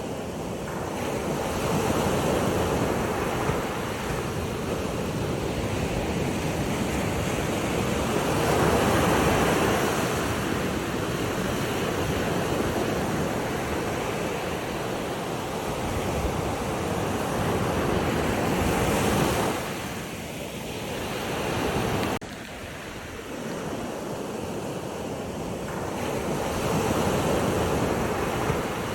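Ocean surf: waves washing in, a rushing noise that swells and ebbs every few seconds, with some wind on the microphone. The rush drops abruptly about two-thirds of the way through.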